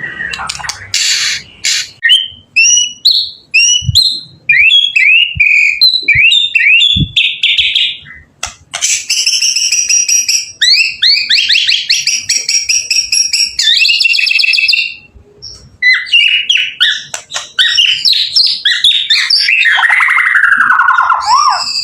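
White-rumped shama (murai batu) singing a long, varied song of clear whistles, quick upward chirps and fast trills, broken by two short pauses about 8 and 15 seconds in.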